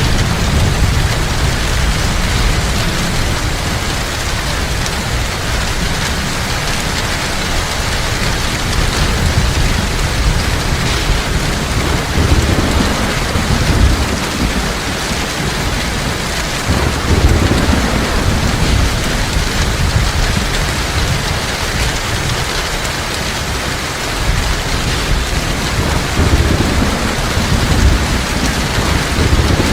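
Heavy, steady rainfall, a dense hiss of drops, with low rumbles of thunder swelling up several times, around halfway through and again near the end.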